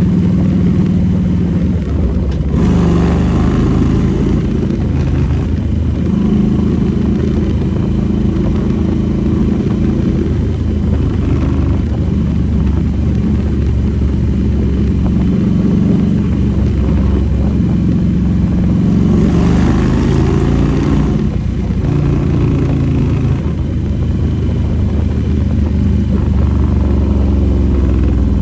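Harley-Davidson motorcycle's V-twin engine running under way, its pitch rising and falling as the throttle changes. Two short hissing rushes come through, one about three seconds in and another about nineteen seconds in.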